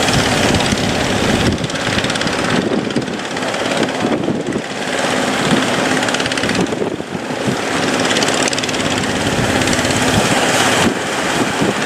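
Boat engine running steadily: a low hum under a broad noise of wind and water.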